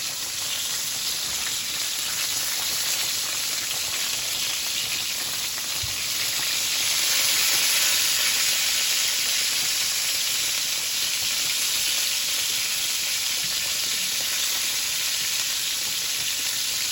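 Seasoned chicken breasts sizzling steadily as they fry in a hot skillet, just after being turned over.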